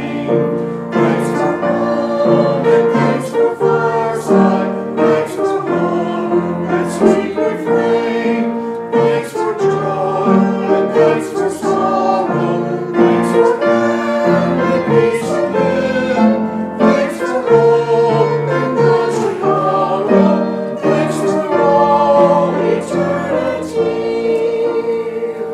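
Choir singing, sustained notes moving from chord to chord.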